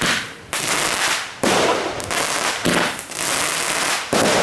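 Fireworks going off in quick succession: about five sudden loud bursts roughly a second apart, each trailing off in a hissing crackle.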